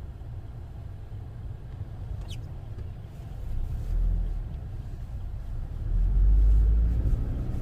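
Low rumble of road and engine noise inside a moving car. It swells briefly about four seconds in, then grows loudest for about a second near the end.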